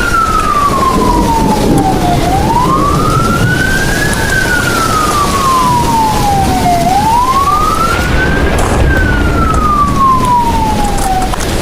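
Emergency vehicle siren in wail mode. It goes through about three slow cycles, each rising quickly and then falling more slowly, over a low rumble, and stops shortly before the end.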